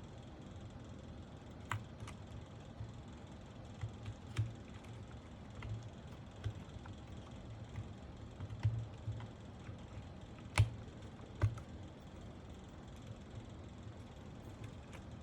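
Irregular sharp plastic clicks and taps from a mechanical keyboard's parts being handled, about a dozen in all, unevenly spaced, with a few louder snaps, two of them close together past the middle.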